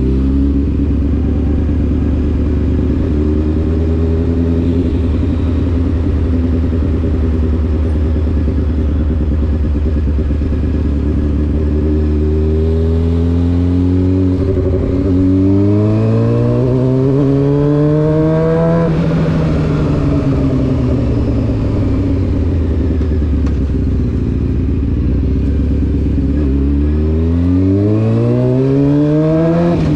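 Honda CBR600F4's inline-four engine through an SC Project exhaust, holding a steady low note for about the first dozen seconds. The revs then climb smoothly for several seconds, fall back slowly, and climb again near the end.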